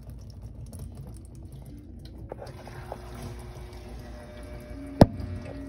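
BWK12 washing machine's softener-dispensing pump running with water flowing: a steady low hum, a faint steady tone joining about halfway through, and one sharp click near the end. This is the normal sound of the pump that throws in the fabric softener.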